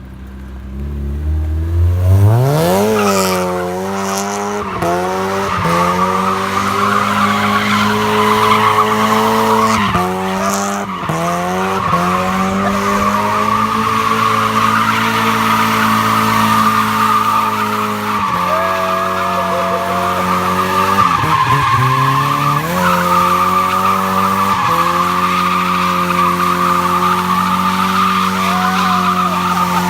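Car engine revving up hard and held at high revs with brief lifts of the throttle, while the spinning rear tyres squeal without a break: a long burnout.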